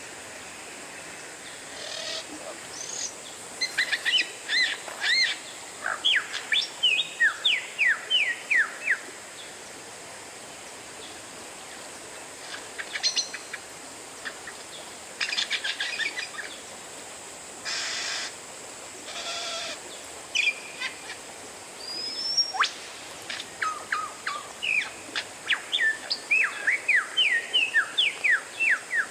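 Oriental magpie-robin (kacer) singing: phrases of quick, sweeping whistled notes and trills broken by pauses, with a couple of harsh rasping notes about two-thirds of the way through and a single rising whistle after them.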